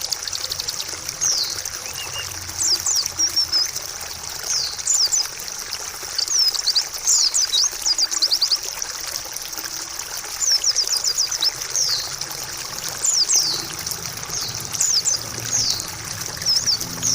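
White-eye (pleci) song: many quick, high chirps and rapid trills, over a steady trickle of running water.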